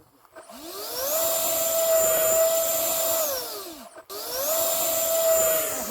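64 mm electric ducted fan of an E-flite F-18 model jet spooling up to a steady high whine, winding back down, then after a sudden break spooling up again, run up to full power for a hand launch.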